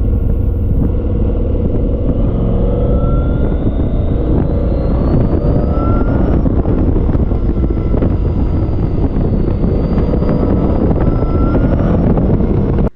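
Off-road buggy engine running on the trail as a loud, steady low rumble, with a faint whine that slowly rises and falls as the revs change.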